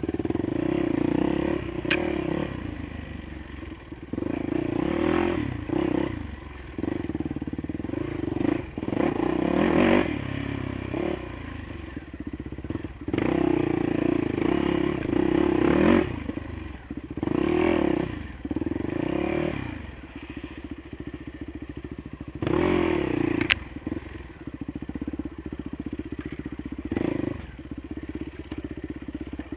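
Dirt bikes riding past one after another on a rough new bush track, each engine revving up and down as it goes by. Underneath, a steady idling dirt bike engine runs close by.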